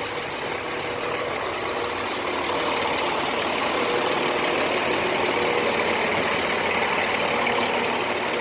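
Engine of the push boat driving the river ferry barge, running steadily, growing a little louder over the first few seconds.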